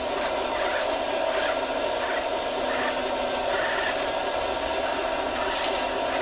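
Radio-controlled construction model running, a steady motor whine held at one pitch, with short soft noises recurring about every half second to second over it.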